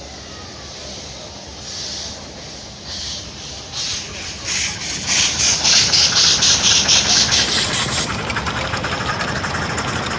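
Miniature steam locomotive chuffing as it pulls away, its hissing exhaust beats getting louder and quicker until they blur into a fast, even rhythm near the end.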